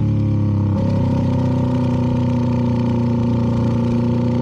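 CFMoto 300NK single-cylinder engine with a KO aftermarket exhaust, its pitch falling as the bike rolls off to stop at an intersection, then about a second in dropping to a steady idle.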